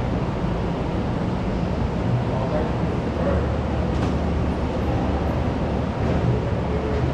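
School canteen ambience: a steady blur of many distant voices talking over one another, with a low hum and the odd faint clatter.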